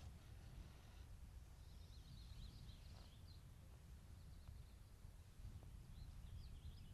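Near silence: a low outdoor rumble with faint bird chirping twice, the second time near the end. A few soft ticks come from hand-stitching thread being drawn through leather.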